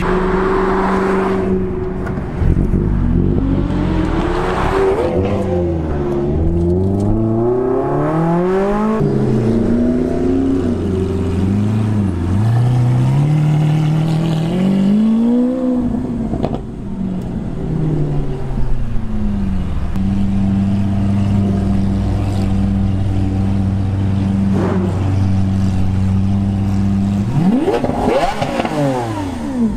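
Supercar engines revving, their pitch climbing and dropping again and again through the first half. From about twenty seconds in, a steady low idle follows, with quick sharp revs near the end. The later idle and revs come from a Lamborghini Aventador SV's V12.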